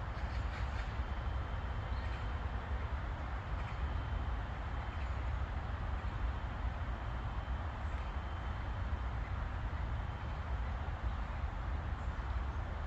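Steady outdoor park ambience dominated by a continuous low rumble and hum of distant traffic, with a faint high thin tone that comes and goes.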